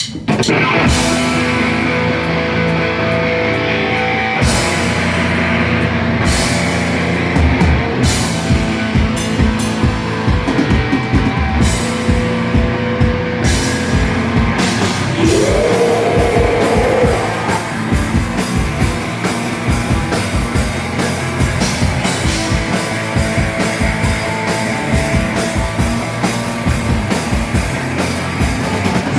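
Live rock band playing loud, distorted electric guitars, bass and drum kit kicking in together at the top of a song, with the drums turning to rapid steady hits after about seven seconds.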